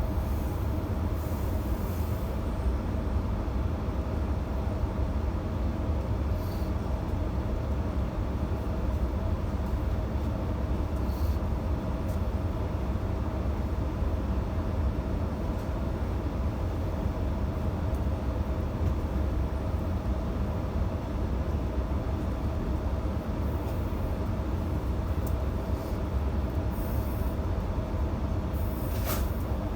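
Electric passenger train running between stations, heard on board: a steady low rumble with a constant hum, and a few brief high squeaks or ticks from the wheels and carriage.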